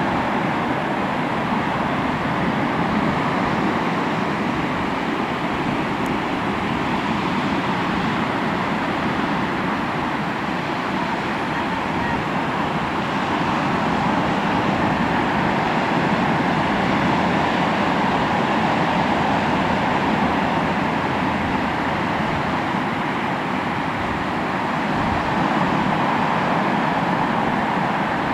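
Sea waves breaking and washing on a shore: a continuous wash of surf that swells and eases slowly.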